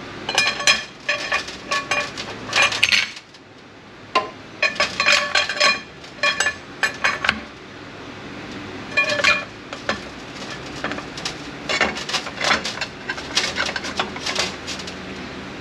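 Steel parts of an 8L90 automatic transmission clinking and clattering against each other as they are handled during teardown, in irregular clusters of sharp ringing clinks.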